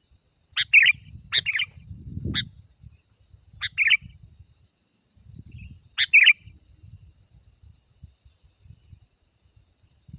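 Sooty-headed bulbul (kutilang) giving short, loud two-part calls, a sharp note followed by a bubbly one, five times with irregular gaps. A steady high-pitched hiss runs underneath.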